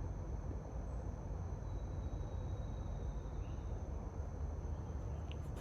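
Forest ambience: a steady high-pitched insect trill over a low, even background noise.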